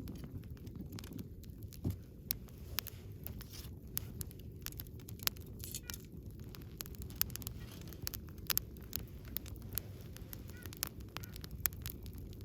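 Wood bonfire burning: frequent irregular sharp crackles and pops over a low, steady rumble of the flames.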